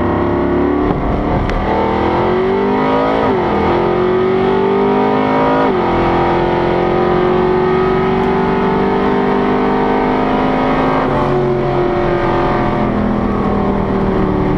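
Supercharged drag car engine at full throttle on a quarter-mile pass, heard inside the car: the engine note climbs, drops sharply at two gear changes about three and a half and six seconds in, then rises slowly in top gear before easing back a little near the end.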